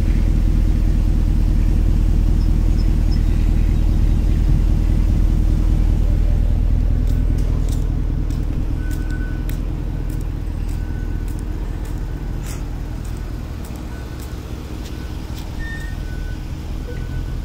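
A motor vehicle's engine running steadily, a low hum that eases off over the middle and picks up again near the end. A few faint clicks and short high chirps sound over it in the second half.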